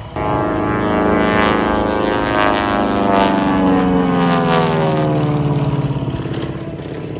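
Twin Beech (Beechcraft 18) with its two radial piston engines making a low fly-past, its engine and propeller note dropping steadily in pitch as it passes and then fading away.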